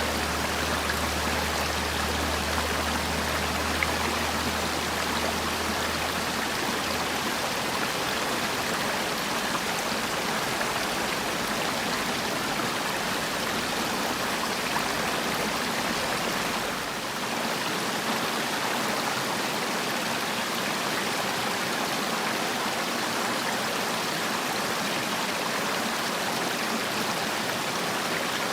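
Mountain valley stream: water rushing and splashing steadily over rocks.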